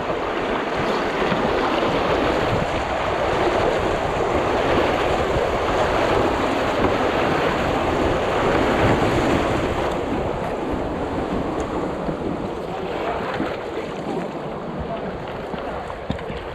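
Rushing water pouring through a river fish pass, a steady loud wash that eases slightly after about ten seconds.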